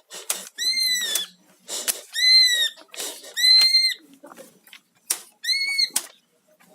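Cucak ijo (green leafbird) calling in agitation: four loud, arched whistled notes about half a second each, separated by short harsh rasping bursts, a sign of the bird's aroused, aggressive temper under provocation.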